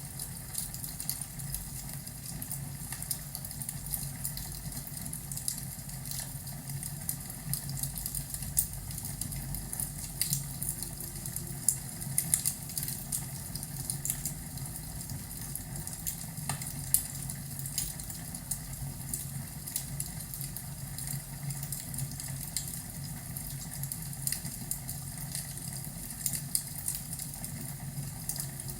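Fireplace fire crackling: irregular sharp pops and crackles over a steady low rumble.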